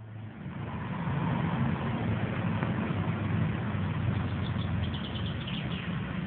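Scania 164 580's V8 diesel engine running with a steady low rumble, swelling up over the first second and then holding level.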